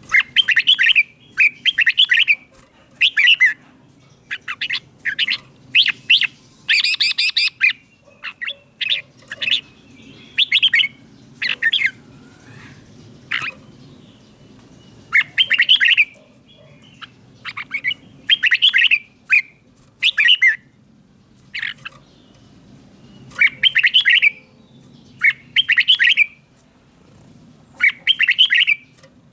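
Red-whiskered bulbul singing: short, loud, warbling whistled phrases of about half a second, often in pairs, repeated every second or two with a few brief pauses. A faint low hum runs underneath.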